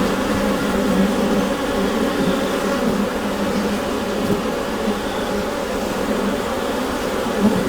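Honeybees humming inside a hive: a dense, steady drone of many wings, with bands of pitch around a low hum and small swells of individual bees.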